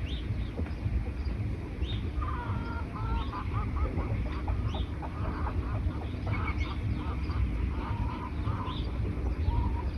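Forest birds calling: a short high chirp repeated about once a second, and a run of lower, rapid calls from about two seconds in until near the end, over a steady low rumble.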